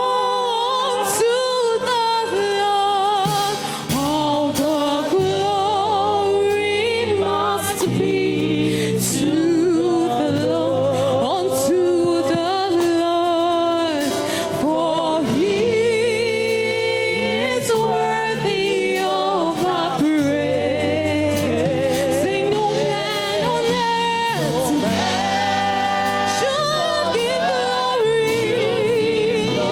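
Gospel worship song sung with a band backing: voices carry a melody over sustained low instrumental notes and occasional percussive hits.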